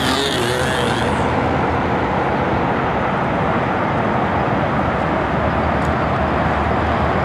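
Small model airplane engine running steadily at high speed as the control line plane flies its circles.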